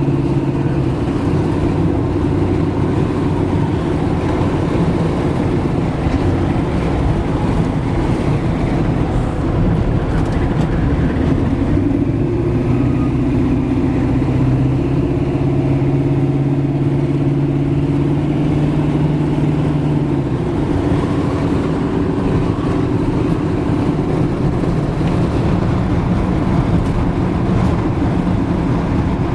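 1996 LT1 5.7-litre V8 with Flowmaster exhaust running as the 1972 Chevy C10 pickup drives, with road and tyre noise. The engine note holds steady, then settles at a new pitch a few times, about a second in, near the middle and about two-thirds of the way through.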